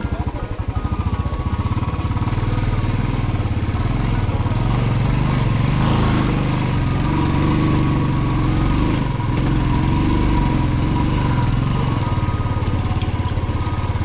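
Motorcycle engine running with a fast, even pulse, growing a little louder about two seconds in.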